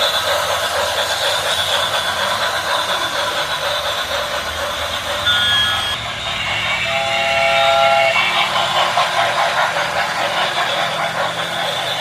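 Steam train running with a steady rumble, sounding a short whistle blast about five seconds in and a longer whistle about seven seconds in.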